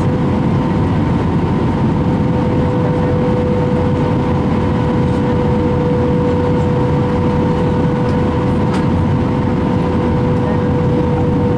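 Steady jet airliner cabin noise inside an Airbus A319: a constant rush of engine and airflow noise with a steady hum tone running through it.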